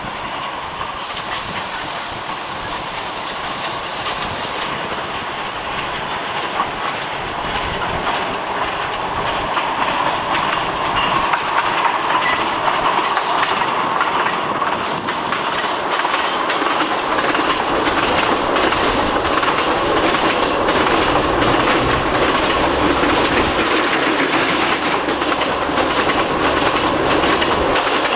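A narrow-gauge train of wagons running on the track, wheels clattering over the rail joints. It grows louder over the first ten seconds or so as it comes closer, then carries on steadily.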